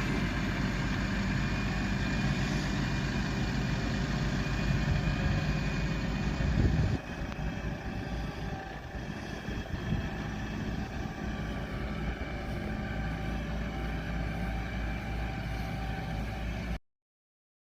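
Vehicle engine running steadily. The sound changes abruptly about seven seconds in and cuts off sharply just before the end.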